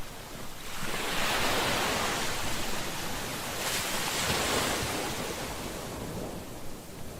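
Ocean waves breaking on a shore. One wave crashes and washes in about a second in, a second surge follows near four seconds, and the wash eases back near the end.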